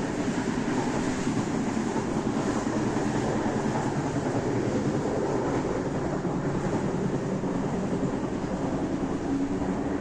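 Passenger sleeper train running along the track, a steady running noise with no breaks.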